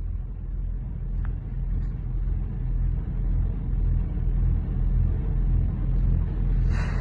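Boat engine running with a steady low rumble that slowly grows louder, with a short noisy rush near the end.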